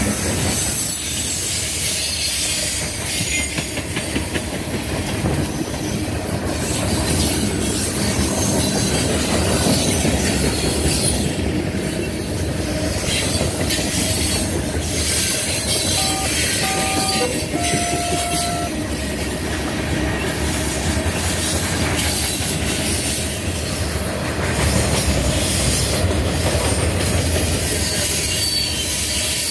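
A long Norfolk Southern freight train's cars rolling past close by: a steady rumble and rattle of steel wheels over the rail joints. About sixteen seconds in, a horn sounds three short notes.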